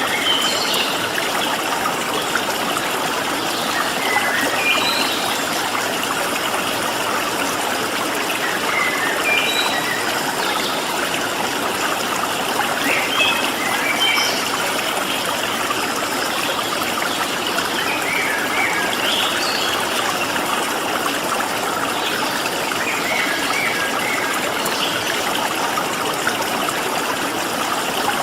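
Stream water flowing steadily, with small birds giving short, scattered chirps over it.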